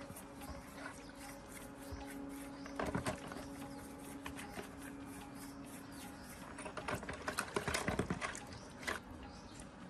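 Rapid mechanical rattling and clinking, with a short burst about three seconds in and a longer, louder run from about six and a half to eight seconds, over a steady low hum. Birds chirp faintly throughout.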